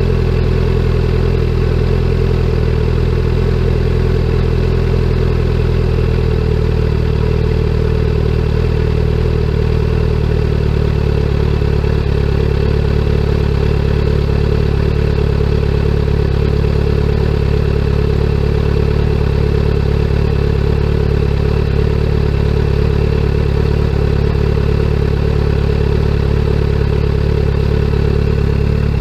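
2017 Kawasaki Z900's 948 cc inline-four idling steadily through a CS Escapamentos aftermarket full exhaust. Its pitch settles slightly lower about ten seconds in.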